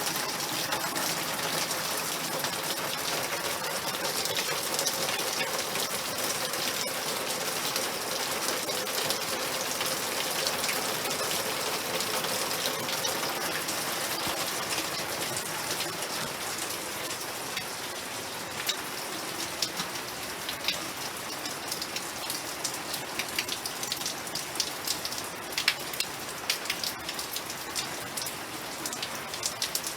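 Rain falling steadily, a dense hiss with individual drops striking a surface. Past the middle the hiss eases a little and separate drop impacts stand out more.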